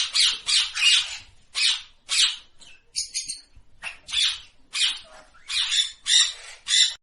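Parrot squawking over and over in harsh, rasping calls, about two a second.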